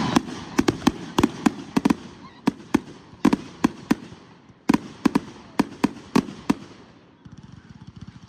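Consumer fireworks going off: a string of sharp bangs at uneven spacing, about two or three a second, thinning out and stopping about six and a half seconds in, followed by a faint rapid crackle.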